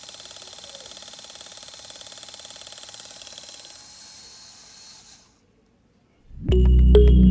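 Small electric motor of a homemade model machine running with a steady whirr and a fast buzz. It weakens after about four seconds and stops a little after five. Loud background music comes in near the end.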